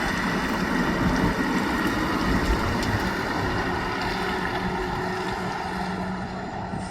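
Heavy truck's diesel engine running steadily as it goes by, with road and wind noise, louder in the first few seconds and slowly fading.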